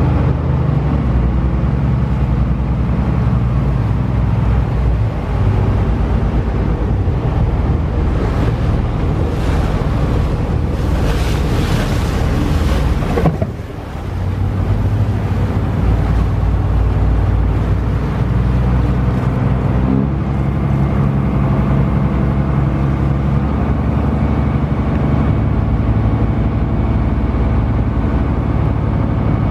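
Wakato ferry's engine running steadily underway, with a rush of wind or water noise over it in the middle that cuts off abruptly, followed by a brief drop in level.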